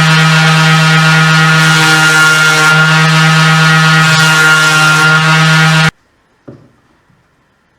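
Table saw motor running at full speed with a loud, steady whine. It stops abruptly about six seconds in, and a faint single knock follows.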